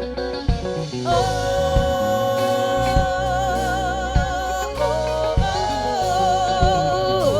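Live soul-funk band playing through a PA system: a singer holds two long wordless notes with vibrato over bass and a steady drum beat.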